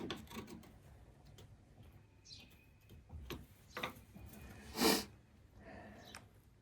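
Light handling noises of work on pipe fittings: scattered clicks and knocks, with one louder, brief scrape about five seconds in.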